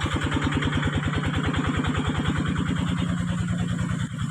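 Crank-started engine of a floodwater pump running steadily on low speed, a rapid even beat of firing strokes.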